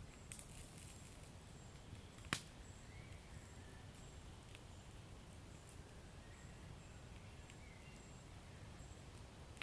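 Wood fire burning quietly in a fireplace: a low steady rumble with scattered small crackles and one sharp pop about two seconds in.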